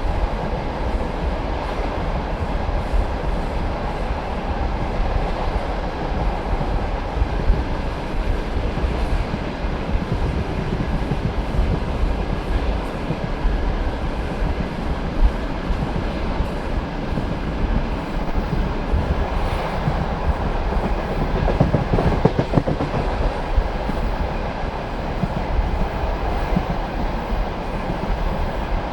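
Passenger train carriage running at speed: a steady rumble with the wheels clattering over the rail joints. The clatter grows busier and louder a little past two-thirds of the way through.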